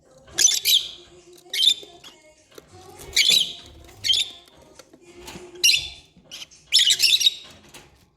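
Lovebirds calling in short, shrill chirping bursts, several times over, with gaps of about a second between them.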